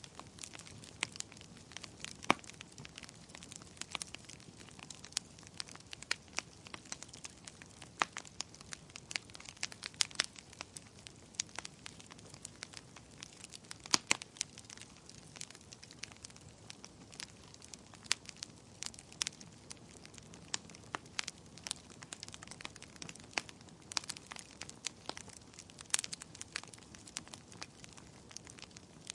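Wood fire crackling: a steady run of irregular snaps and pops over a low hiss, with a few louder pops scattered through.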